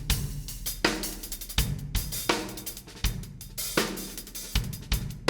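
Drum kit played in a groove: snare, bass drum, hi-hat and cymbal strikes several times a second, the drums damped with Trutone dampers to control their overtones.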